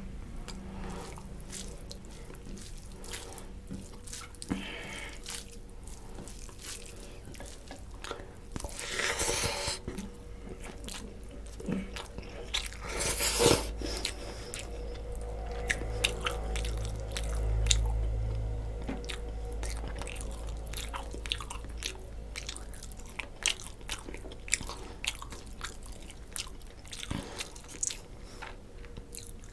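Close-miked eating sounds of a man chewing mouthfuls of rice and rohu fish curry eaten by hand: wet chewing with frequent short mouth clicks and smacks, and a few louder noises about a third of the way and halfway through.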